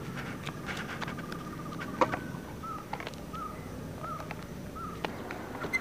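Outdoor ambience: a bird repeats a short chirp four times, a little under a second apart, after a thin steady tone in the first two seconds. Scattered sharp clicks sound over it, the loudest about two seconds in.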